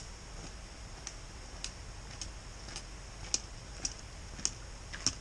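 Light, sharp ticks repeating evenly, a little under two a second, over a faint steady background.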